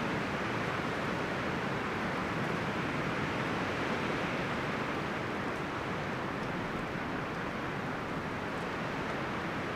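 Wind rustling through forest leaves and branches: a steady, even rush with no distinct calls or knocks.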